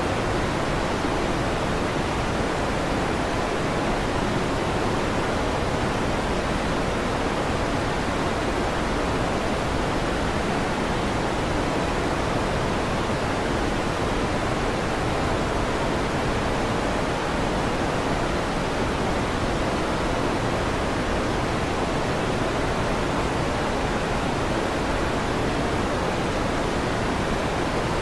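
Electric fan running with a steady, even whoosh that does not change, heavier in the lows than the highs; no thunder claps are heard.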